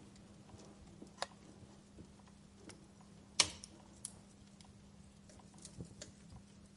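Wood fire crackling: scattered sharp pops, the loudest about three and a half seconds in, over a faint steady hum.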